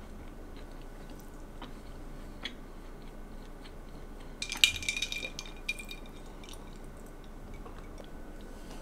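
Soft chewing of a crumbly pineapple cake with small mouth ticks. About four and a half seconds in there is a brief clink of a small porcelain plate with a short ring, as a piece is picked up off it.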